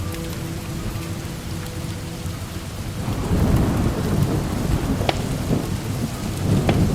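Steady rain with a long roll of thunder building about three seconds in. Two sharp cracks stand out near the end.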